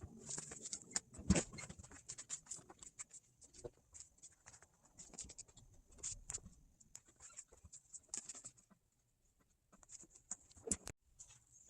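Cut upholstery material pieces being handled and shuffled on a work table: irregular rustling and light taps, a soft thump about a second in, and two sharp clicks near the end after a short lull.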